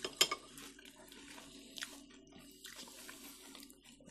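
Soft, wet chewing and mouth clicks of people eating sushi rolls, with a few faint clicks along the way.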